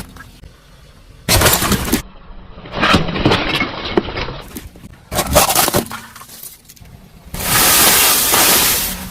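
Objects being crushed and breaking under a car, in four separate bursts of crunching and cracking, the last and longest near the end.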